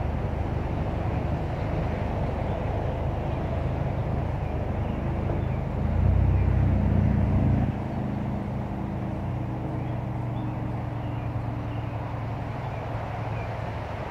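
Exhaust of a 2016 Ford Mustang EcoBoost's turbocharged 2.3-litre four-cylinder, breathing through a stock downpipe and a 3-inch Maperformance cat-back with dual resonators and MagnaFlow street mufflers. The engine runs steadily, gets louder with a short burst of throttle about six seconds in, then settles back to a lower, fading drone over a steady hiss of distant highway traffic.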